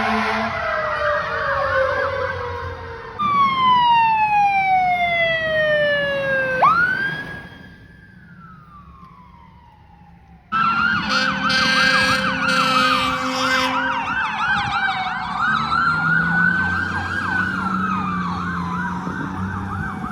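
Fire truck sirens in several short cuts: long rising and falling wail glides, one climbing sharply and sliding slowly down, then a wail layered with a fast repeating yelp. A steady blaring horn sounds over the siren about halfway through.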